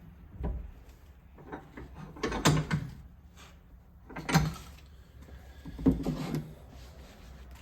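Knocks and clunks of a piece of firewood being handled and set in place, four separate clunks, the sharpest about four and a half seconds in.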